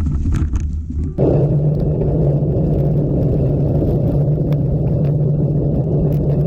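Steady rumble of wind buffeting the microphone and tyre noise from a mountain bike on the move; the sound changes abruptly about a second in, then holds steady.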